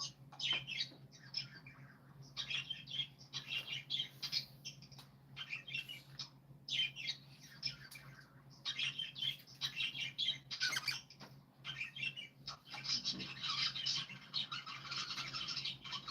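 Birds chirping and squawking in quick, short calls, growing into a dense stretch of chattering near the end.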